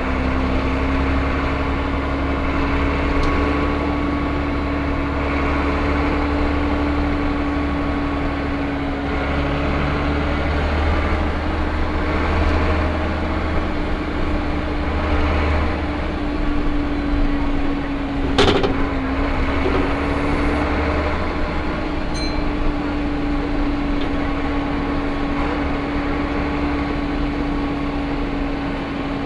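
Interior sound of a Van Hool A320 city bus running: a steady low engine rumble under one steady whine. A single sharp click about 18 seconds in.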